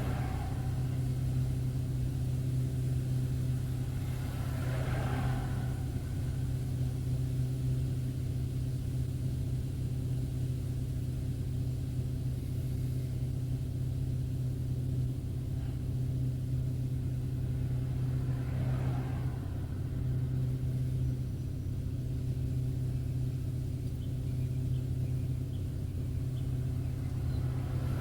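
A car driving on the road: a steady low drone of engine and tyres, with a brief swish of another vehicle passing about five seconds in and again a little past two-thirds of the way through.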